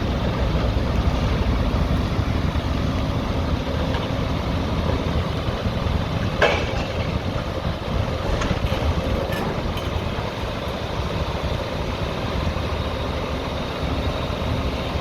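Demolition excavator's diesel engine running steadily, with a sharp knock about six and a half seconds in and a few fainter clicks after.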